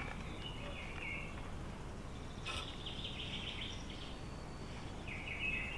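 Birds chirping in short phrases three times, over a steady low outdoor background noise.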